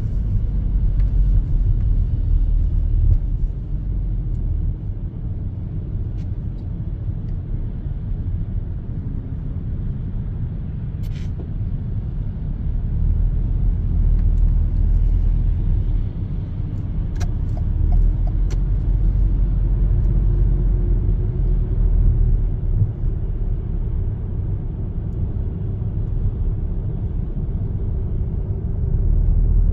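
A car driving on snow-covered city streets: a steady low rumble of engine and tyres, with a faint engine note that rises gradually in the middle and a few faint ticks.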